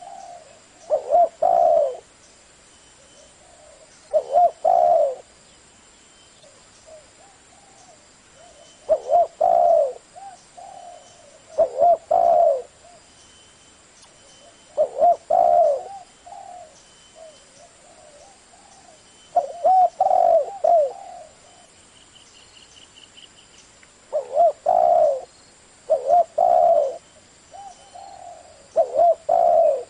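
Spotted dove cooing in a deep 'thổ' voice, the style used to lure wild doves. It repeats a short phrase of coos about every three seconds, with softer coos in between.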